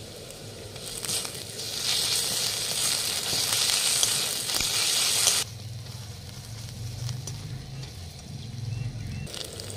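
Onions and ginger paste sizzling in hot mustard oil in a metal karai as they are stirred with a spatula. The sizzle swells about a second in and cuts off abruptly about halfway through, leaving only a quieter low hum.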